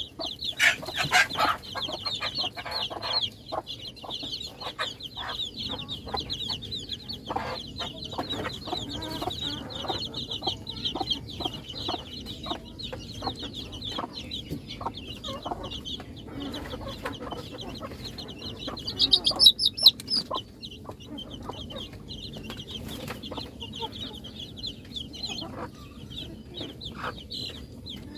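A brood of chicks peeping continuously, many high, short calls overlapping, with a louder flurry of peeps about two-thirds of the way through. Scattered clicks and taps sound among the peeps.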